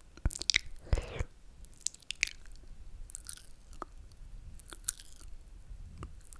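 Close-miked ASMR mouth sounds: wet slurps and lip smacks, a series of short moist clicks and brief hissy sucks spaced a second or so apart.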